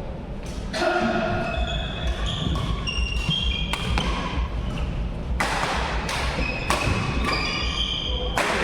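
Badminton rally in a sports hall: rackets smacking the shuttlecock at irregular intervals, with short high-pitched squeaks of court shoes on the floor between the shots.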